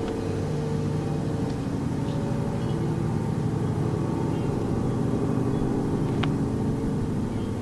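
Continuous low droning hum of unknown source, like a distant airplane that never passes: several steady overlapping tones that shift slightly in pitch. A single short click about six seconds in.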